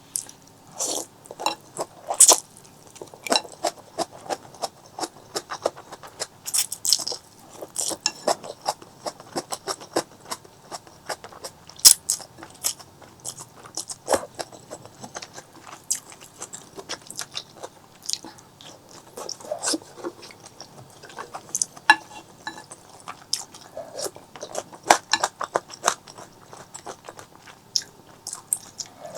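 Close-miked mukbang eating: biting and chewing, with many sharp, irregular mouth clicks and smacks.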